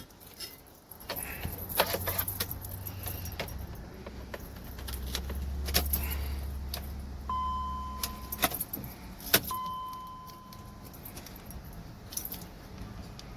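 Car keys jangling and clicking at the ignition of a BMW X5 with a freshly reinstalled battery, a low steady hum for several seconds, then two steady electronic beeps from the car about two seconds apart. The engine does not start.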